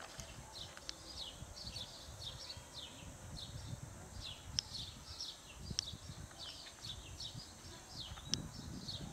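Small birds chirping steadily in the background, a busy run of quick, short, falling chirps, with a few sharp clicks.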